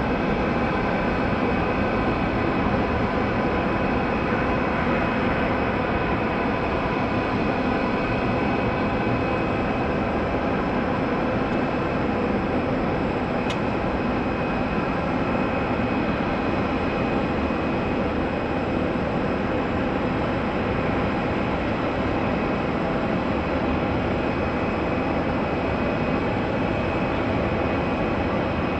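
Jet airliner engines running at a steady power: an even rushing noise with a constant high whine on top that neither rises nor fades. There is one short click about halfway through.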